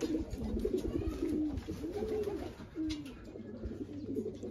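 Racing pigeons cooing in the loft: several low, rising-and-falling coos overlapping one another, with a few soft low knocks.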